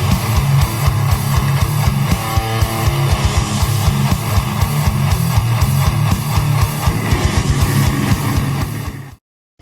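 Heavy metal music with distorted guitars and fast, evenly spaced kick-drum hits. It fades out and drops to silence just before the end.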